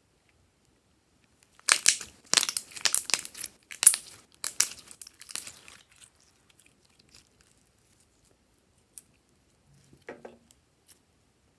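Thin plastic packaging being torn open and crinkled by hand: a burst of sharp crackling for about four seconds, then a few faint ticks and a short soft sound near the end.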